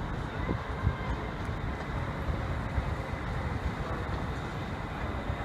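Steady rumble and hiss of a train in a railway station, with faint steady tones above it.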